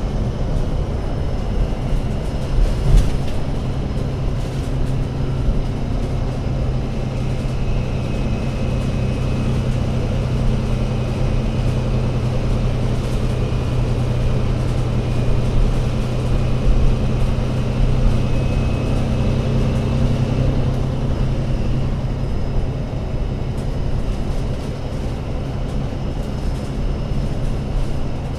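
Diesel engine of an ADL Enviro500 MMC double-decker bus running under way with a steady low drone. A faint high whine rises in pitch twice as the bus picks up speed, and there are a few knocks in the first seconds.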